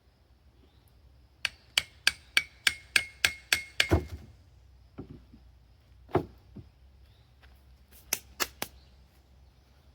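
Hammer blows on steel as bearings are driven out of an excavator travel motor hub. First comes a quick run of about ten ringing metallic strikes, about three a second, ending in one heavier, duller blow. A few single strikes follow, then three more close together near the end.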